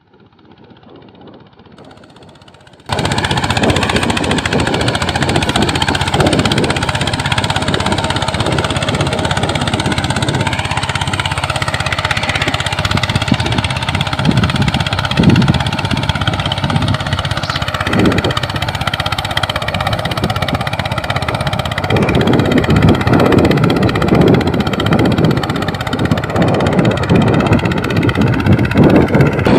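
Mini tractor's engine running loudly and steadily with a rough, pulsing note. It comes in suddenly about three seconds in, after a faint stretch.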